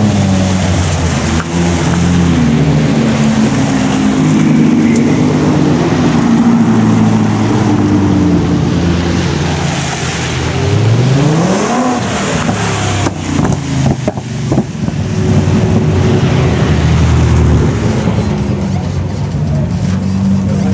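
High-performance drag-race car engines running and revving, with the pitch climbing steeply about halfway through as a car accelerates. A cluster of sharp cracks follows shortly after.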